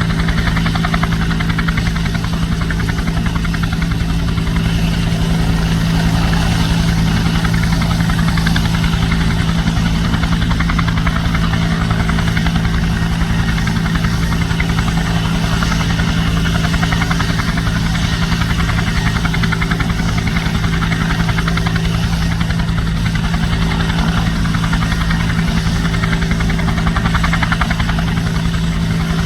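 Bell 212 helicopter running steadily on the ground, its twin-turbine engine droning with a steady low hum and the two-bladed main rotor beating fast and evenly. The sound does not change: no run-up or lift-off.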